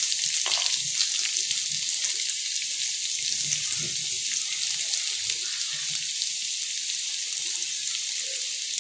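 Chopped garlic sizzling in hot oil in a frying pan: a steady hiss with fine crackling.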